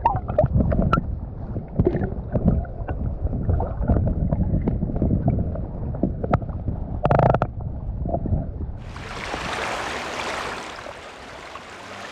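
Kayak paddling: irregular paddle strokes and water splashing and knocking against the hull. About nine seconds in this gives way to a steady rushing hiss.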